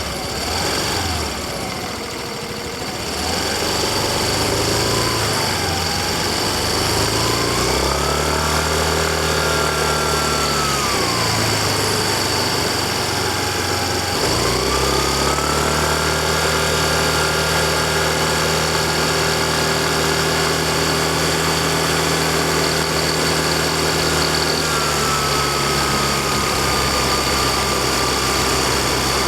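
Yamaha Fazzio scooter's 125 cc single-cylinder engine running under way, with wind and road noise. The engine pitch climbs as it accelerates about eight seconds in, sinks as it slows a few seconds later, then climbs again and holds steady while cruising, easing a little near the end.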